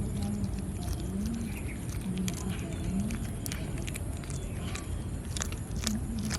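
Cats chewing raw fish: scattered sharp wet clicks and crunches over a steady low rumble, with a low wavering tone that comes and goes.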